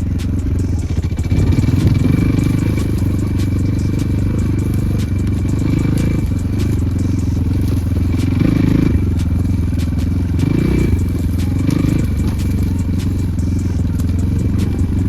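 Enduro motorcycle engine running under way, its note rising and falling with the throttle, with scattered clicks and rattles from the ride over rough ground.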